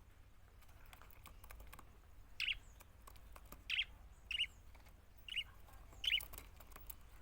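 Budgerigars giving short chirps, five in all, coming about once a second from a couple of seconds in, over faint scattered ticking.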